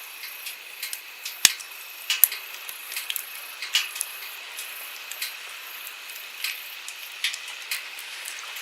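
Wood campfire crackling, with irregular sharp pops and snaps, the loudest about one and a half seconds in, over the steady rush of a flowing stream.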